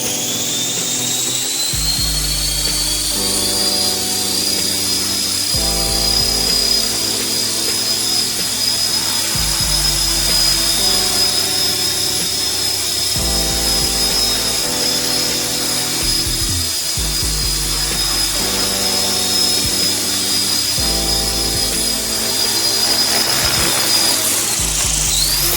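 A 450-size electric RC helicopter's brushless motor and rotor head give a high whine. It rises as the rotor spools up at the start, holds steady through a long hover, and drops as it spools down near the end. Background music plays underneath.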